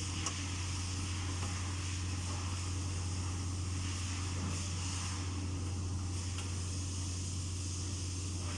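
Steady low hum with a light hiss above it, unchanging throughout, and one faint click about a third of a second in.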